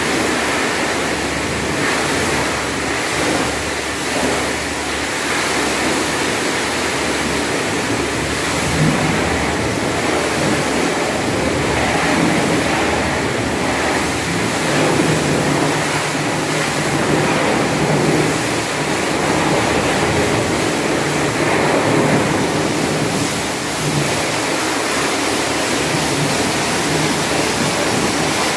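Steady rushing hiss of water or cleaner being sprayed at a car wash during an engine wash, with a low rumble beneath.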